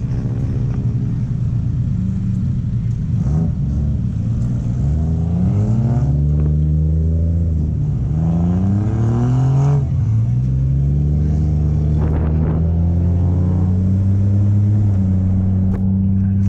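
Car engine accelerating through the gears: the pitch climbs and drops back at each of about three shifts, then settles into a steady drone that rises slowly.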